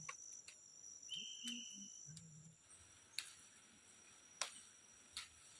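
Faint, steady high-pitched chirring of crickets, with a few sharp clicks or snaps in the second half.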